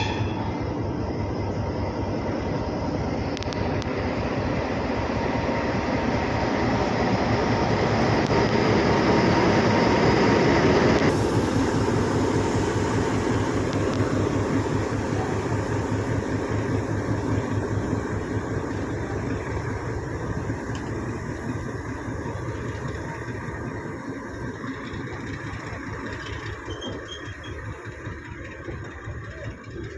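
Train passing over railway points, its wheels clattering rapidly over the rail joints and crossing. It builds to its loudest about ten seconds in, then slowly fades as it moves away.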